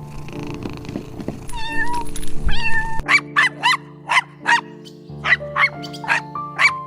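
Animal calls over background music: drawn-out pitched calls, then after a cut about three seconds in, a quick run of short high chirps, about four a second.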